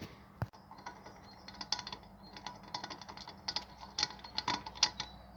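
Irregular metallic clicking and rattling of a nut being worked on the original tie rod's worn-thin thread, slipping over it instead of screwing on: the thread is too worn for the nut to bite.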